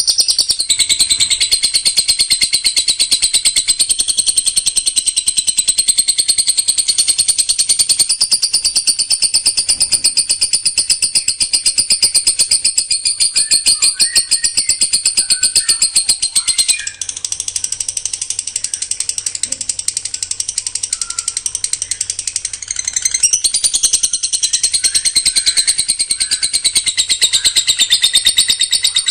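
A songbird singing a fast, tightly packed run of sharp, high repeated notes, many per second, in the rapid-fire style kicau fans call 'tembakan rapat'. The run goes softer for a few seconds past the middle, then picks up again.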